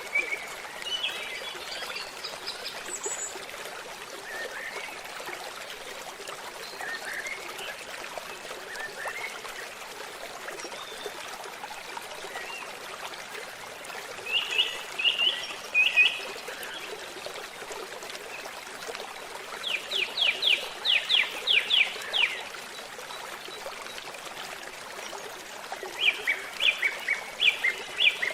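A babbling stream trickling steadily, with songbirds chirping over it in short runs of quick notes. The loudest is a rapid series of about a dozen sharp notes some twenty seconds in, and another stuttering series comes near the end.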